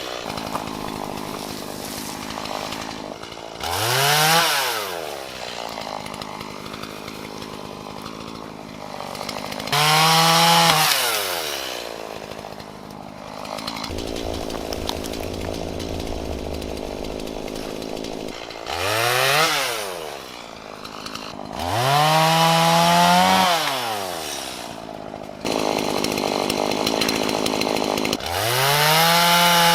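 Two-stroke gas chainsaw running, revved up to full speed and let back down about five times. Between the revs it settles into steadier stretches while it saws through wood.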